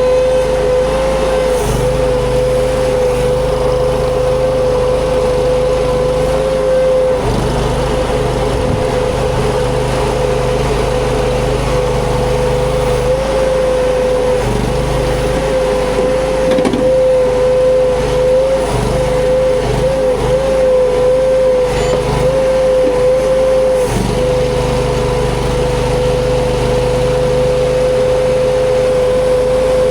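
Huayee LHY480 mini skid steer running hard, with a steady high whine over the engine. The pitch dips and wavers several times in the middle stretch, then settles steady again.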